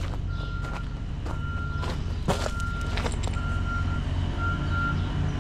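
Man lift's motion alarm beeping about once a second, one steady high tone, over its engine running. Scattered sharp clicks and knocks, the loudest about two seconds in.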